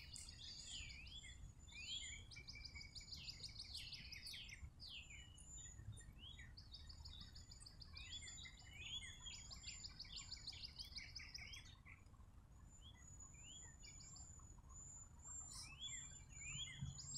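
Faint songbird calls: several birds overlapping in repeated quick trills and short chirps that sweep up and down, with a brief lull about two-thirds of the way through.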